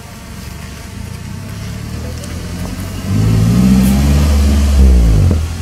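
Car engine revving: a low running hum builds up, then about halfway through the engine is revved hard for about two seconds, its pitch climbing and then falling away as it drops off.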